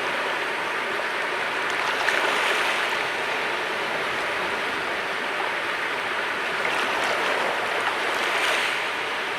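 Sea waves washing onto the shore, a steady rushing wash that swells louder twice, about two seconds in and again near the end.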